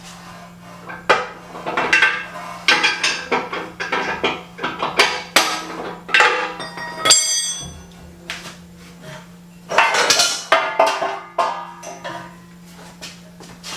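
Metal band saw parts and hand tools clinking and clattering irregularly as the saw is taken apart, with a bright ringing metal clink about seven seconds in.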